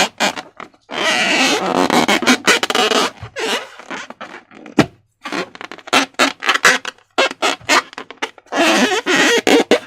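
Slime being squished and worked by hand: a run of quick wet clicks and pops, with two longer stretches of dense crackling squelch, one starting about a second in and one near the end.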